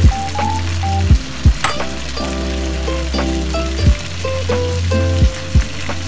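Fish fillets sizzling as they fry in hot oil in a wok, under background music with held notes, a steady deep bass and several deep kick-drum hits, the loudest sounds.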